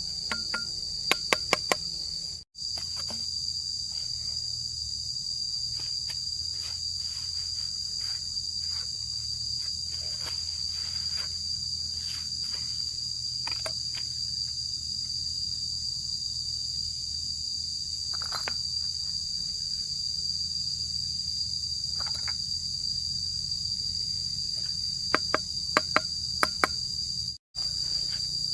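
Insects trilling outdoors in a steady high-pitched drone. A few quick sharp taps come in clusters about a second in and again near the end.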